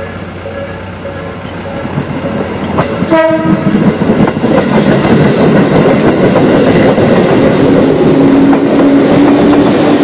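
A short train horn blast about three seconds in, then a Tobu 800-series commuter train running close past, loud and steady, with a steady hum joining in later.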